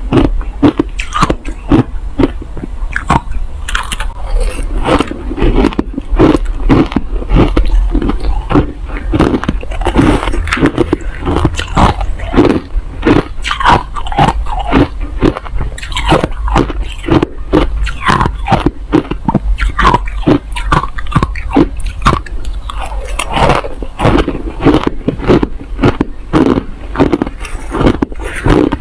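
Close-miked biting and chewing of hard crushed ice: loud, rapid, irregular crunches, several a second.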